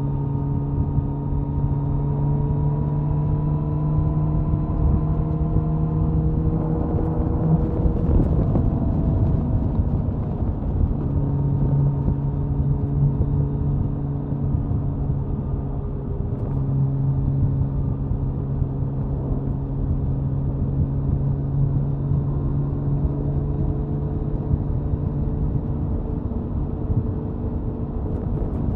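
Suzuki Hayabusa inline-four engine and exhaust at highway cruising speed, a steady drone under rushing wind noise. The note climbs slowly over the first several seconds, breaks off briefly about eight seconds in and again just past halfway, then settles back to a steady pitch.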